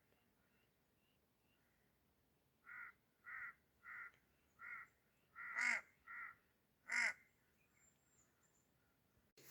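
A bird giving a series of seven short, harsh calls, each about a third of a second, close to twice a second, the sixth and seventh the loudest; faint high chirps come before them.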